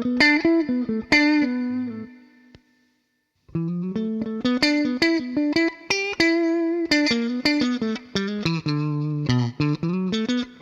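Electric guitar through a JAN RAY-style overdrive pedal, playing single-note lead lines with string bends. The first phrase fades to silence about two seconds in, and a new phrase starts about a second later.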